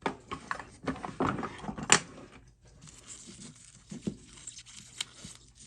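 A plastic protective sheet crinkling and tearing as it is handled, densest over the first two and a half seconds with a sharp click near two seconds in, then lighter scattered rustles and taps.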